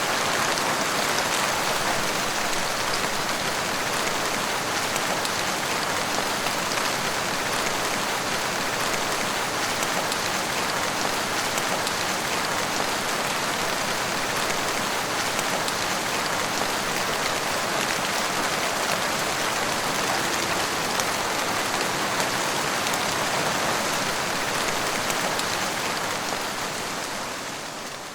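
Steady rain falling, an even hiss of many drops with no thunder. It fades in quickly at the start and fades out at the very end.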